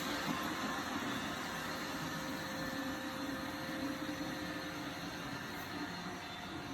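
Roomba robot vacuum running, a steady mechanical whir with a faint hum.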